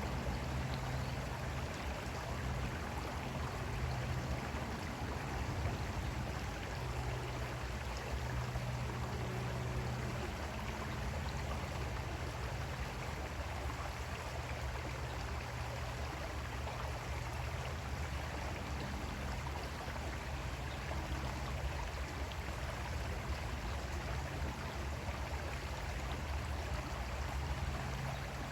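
Creek water flowing steadily over rocks, a continuous even rush with a low rumble underneath.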